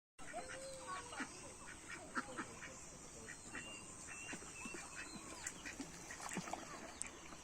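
A flock of domestic ducks quacking and chattering, many short calls overlapping.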